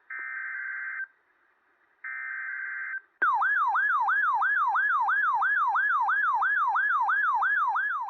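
Emergency Alert System signal for a high wind warning: two one-second bursts of buzzing SAME header data, then a loud warbling alert tone that sweeps up and down about three times a second and cuts off abruptly.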